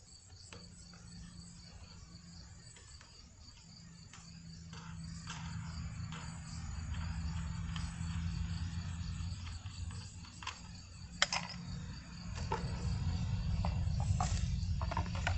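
Crickets chirping steadily over a low hum that grows louder about four seconds in, with a few sharp clicks as the small engine's carburetor is opened up.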